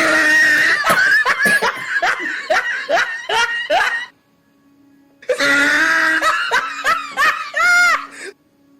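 A person laughing hard in two bouts of quick, repeated bursts. The first bout runs about four seconds, then comes a brief pause. The second bout ends in a high squeal that rises and falls.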